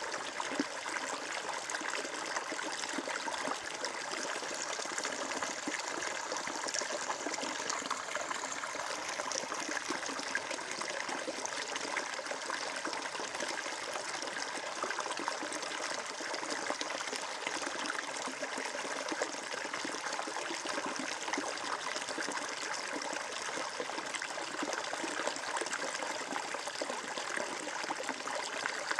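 Stream water flowing and trickling steadily, with a constant splashing babble.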